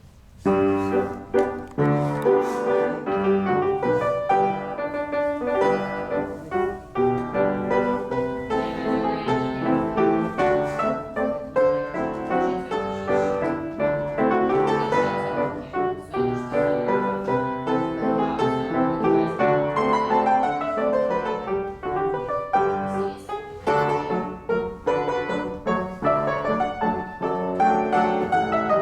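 Piano playing classical-style accompaniment for a ballet class exercise, starting about half a second in and running on as a continuous melody over chords.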